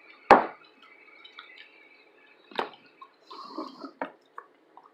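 Ginger ale being drunk: a sharp knock, as of the cup or can, shortly after the start, then softer knocks and small wet sipping and swallowing sounds around the middle.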